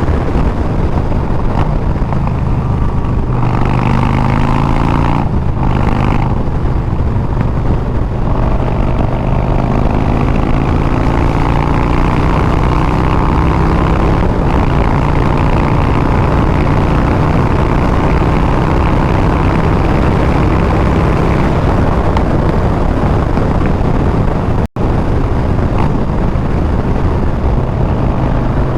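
Harley-Davidson Milwaukee-Eight 114 V-twin running through Bassani straight pipes while riding, the revs climbing and easing off with the throttle. The sound drops out for an instant about 25 seconds in.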